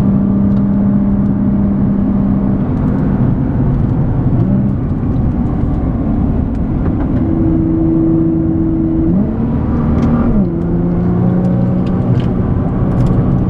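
Nissan GT-R R35's twin-turbo V6 heard from inside the cabin, running hard on track. The engine note steps in pitch a few times as it changes gear, with a quick rise about nine seconds in that drops back a second later.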